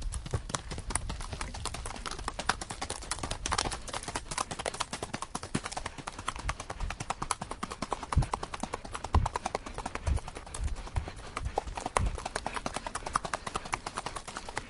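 Horse hooves clopping on a hard surface: a quick, irregular run of sharp knocks, with some duller low thumps mixed in.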